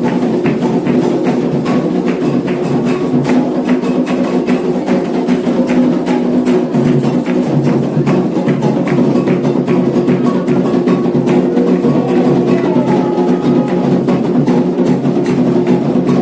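Candomblé atabaque drums playing a rum for Ogum, with sharp struck-bell or wood-like strikes keeping the pattern over steady held tones.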